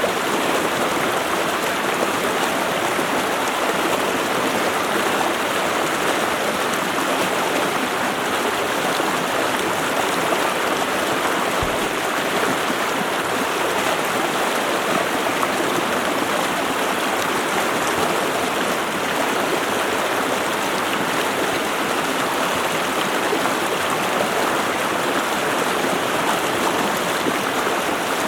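Running water flowing steadily, an even rushing sound that does not change or break.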